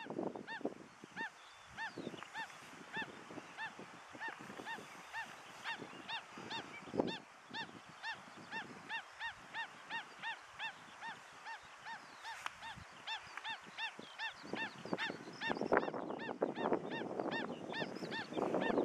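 Birds calling: a steady string of short rising-and-falling notes, about two a second, repeated for many seconds. Near the end more calls overlap into a louder, busier stretch.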